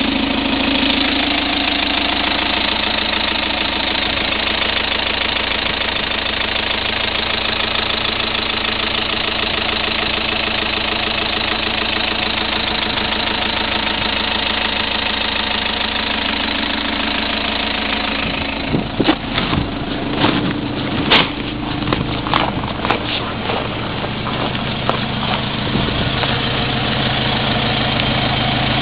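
Mitsubishi 4D32 four-cylinder diesel engine running steadily on test. About two-thirds of the way through, a run of sharp, irregular knocks and clicks starts over the running engine and its level begins to jump about.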